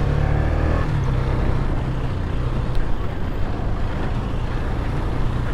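KTM Duke 250's single-cylinder engine running steadily at low revs as the motorcycle is ridden slowly over a rough dirt road, under a steady hiss of wind and road noise.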